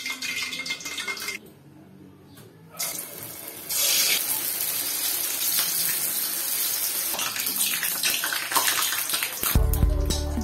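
Siomai deep-frying in hot oil: a steady sizzling hiss with scattered crackles, strongest from about four seconds in. Music with a heavy bass beat comes in near the end.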